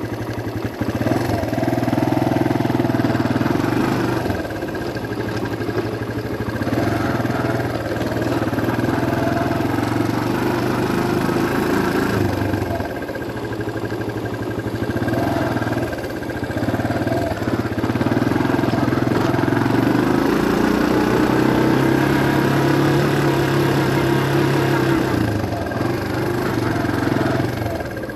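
A vehicle engine running under way. Its pitch and loudness dip and pick up again several times, as the throttle is eased and reapplied.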